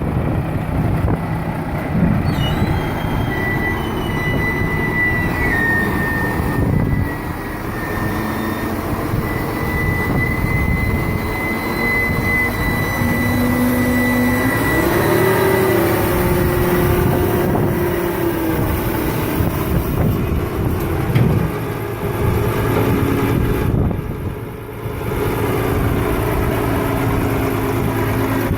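Heavy diesel machinery running steadily during the unloading of an excavator from a hook-loader truck. A high thin whine comes in a couple of seconds in and fades about halfway through, and the engine note steps up in pitch around the middle.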